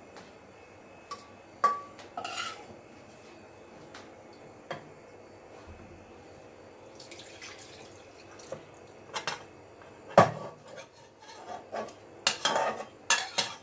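Metal pots and kitchen utensils clinking and clanking, in scattered knocks with a short metallic ring. There is a louder knock about ten seconds in, then a quick run of clatter near the end.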